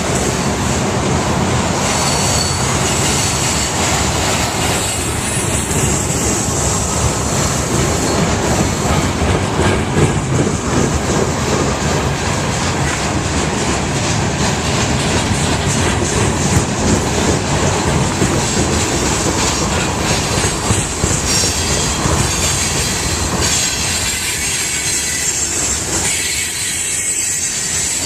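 Freight train cars rolling past on a curve: a steady rumble and clatter of steel wheels on the rails, with a thin high squeal from the wheel flanges.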